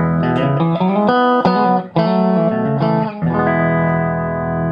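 Electric guitar played clean and dry, with no effect switched on. It plays a few chord changes, then lets one chord ring out steadily from a little past the three-second mark.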